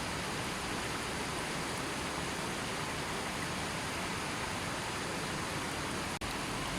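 River water flowing steadily, a continuous even rush, with a split-second gap in the sound about six seconds in.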